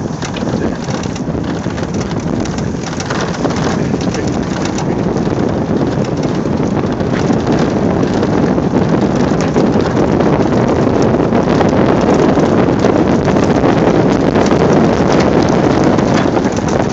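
Wind buffeting the microphone over a steady rumbling rush as a jon boat slides along as a sled, growing louder over the first several seconds, with a few sharp scrapes or knocks in the second half.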